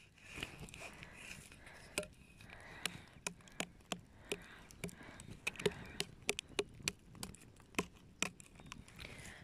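Wood campfire crackling and popping, with many irregular sharp snaps that come thicker and louder in the second half.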